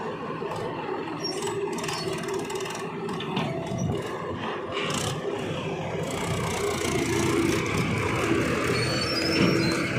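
JCB 3DX backhoe loader working while it loads mud. Its diesel engine runs steadily, with a few short scrapes and knocks from the working gear in the first half and a steady tone rising in the second half.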